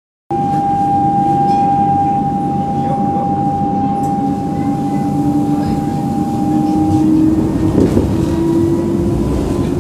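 Munich tram running on its rails, heard from on board: a steady rumble with a high electrical whine that stops about seven seconds in and a lower whine that rises slightly in pitch. The sound cuts in abruptly just after the start.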